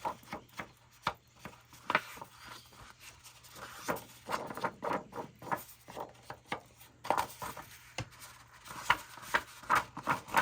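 Irregular light taps, clicks and rubbing of paper and craft tools being handled on a tabletop.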